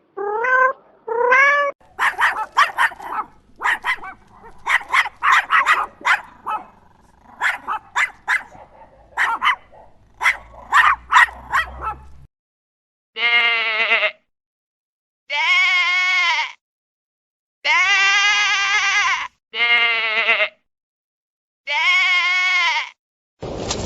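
A sequence of animal calls: two short rising meows at the start, then about ten seconds of rapid, sharp dog barks. These are followed by five long, wavering bleats, each about a second and a half, with short pauses between.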